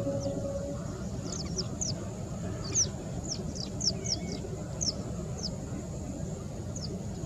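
Wild birds calling: about a dozen short, high, downward-sliding calls, some close together, over a steady low rumble. A steady hum stops about a second in.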